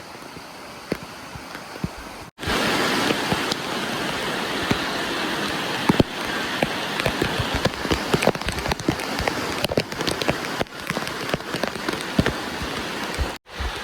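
Water splashing and pattering: a steady rush dotted with many small drips and splashes, quieter at first and much louder after a cut about two seconds in.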